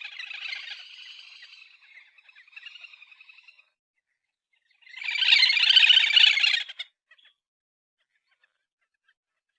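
Little grebe giving its rapid whinnying trill: a trill tails off over the first two seconds, softer calls follow, and a loud trill of under two seconds comes about five seconds in.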